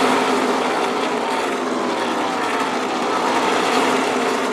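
A pack of NASCAR Truck Series race trucks running past at full speed, several V8 engines overlapping, their pitch dropping as they go by.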